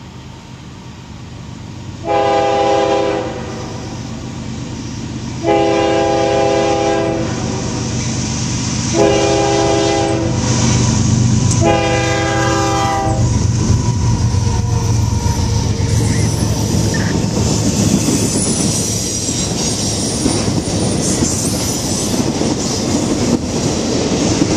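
CSX GE ES44DC diesel locomotive sounding its horn in four blasts as it approaches, then running past. The intermodal train of trailers on flatcars follows, rolling by with a steady rumble and wheels clicking over the rail joints.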